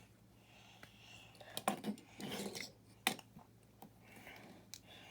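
Plastic building bricks being handled and pressed together by hand: a few sharp clicks, the loudest about three seconds in, with a short rustle of pieces just before it.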